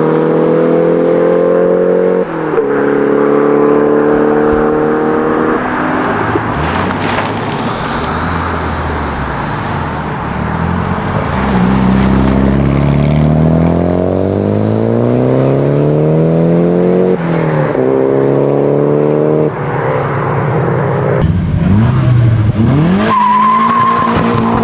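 Modified Nissan Silvia engine revving hard, climbing in pitch and dropping back several times as it shifts gear, with stretches of tyre noise.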